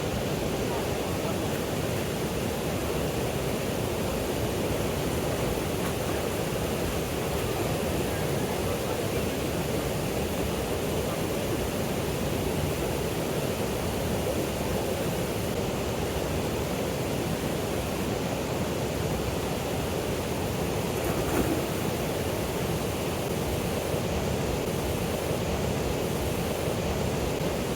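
Waterfall water rushing and splashing as a steady, unbroken roar.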